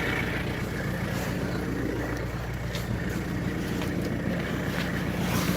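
A diesel car engine idling steadily while it warms up after a cold start, with a few faint clicks.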